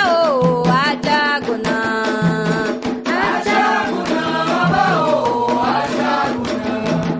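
Candomblé devotional song: voices chanting in Yoruba over a steady beat of hand drums.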